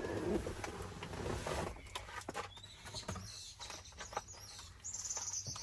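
A few light clicks and knocks of parts being handled, with a bird chirping in the background in the second half.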